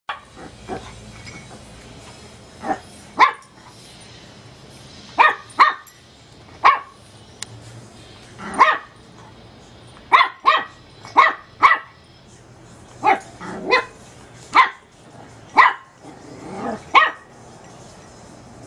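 Teacup chihuahua puppy barking: short, high-pitched yappy barks, about eighteen of them at irregular intervals, often in quick pairs.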